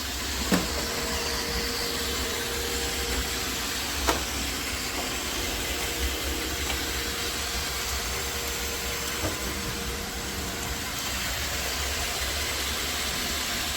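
iRobot Roomba 692 robot vacuum running steadily, its motor and brushes giving an even whir with a faint steady tone, and two light clicks.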